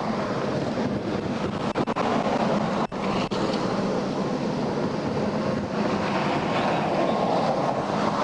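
Steady rushing noise of highway traffic going by, with wind on the microphone and a couple of brief dropouts about two and three seconds in.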